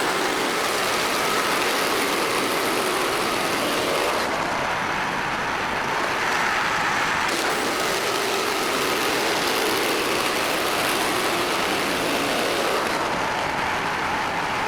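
Portable bandsaw mill running under load: its gasoline engine and band blade cutting steadily through a black walnut log, with slight changes in the sound a few times along the cut.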